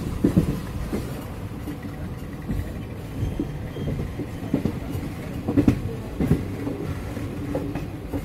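Passenger train running along the track, heard from a coach: a steady low rumble of wheels on rail with short, irregular knocks every second or so.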